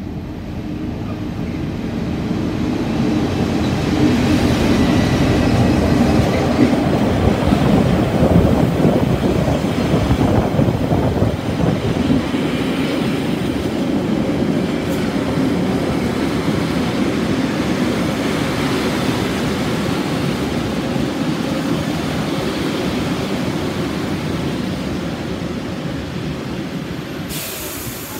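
Diesel-hauled passenger train pulling into a station: the locomotive rumbles as it approaches and passes, loudest several seconds in, then the carriages' wheels rumble past along the platform as the train slows. A faint high whine sounds a few seconds in, and a sudden hiss starts just before the end.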